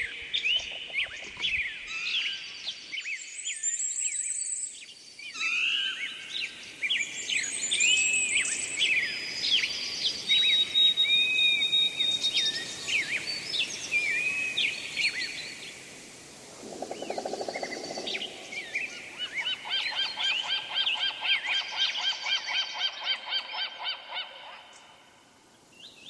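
Several birds calling: many short chirps and whistles overlapping, one held whistle partway through, and a fast repeated trill in the last few seconds.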